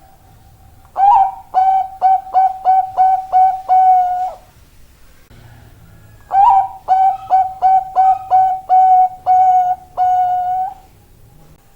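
A Bangkok-type zebra dove (perkutut) singing its cooing song. It gives two phrases of quick, clipped coos on one steady pitch, and each phrase ends in a longer held coo.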